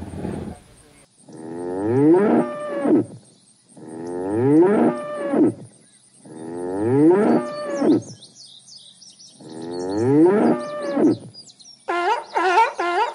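Cape buffalo mooing: the same long call, rising in pitch and then holding, comes four times a few seconds apart. Near the end, sea lions break in with a quick run of higher barks.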